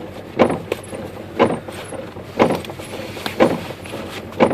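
A regular, short thump about once a second inside a car cabin over the low hum of the car.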